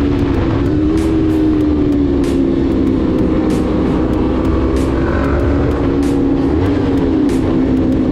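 Motorcycle engine running at a steady cruising speed, its pitch holding fairly even with small rises and falls, over road and wind rumble.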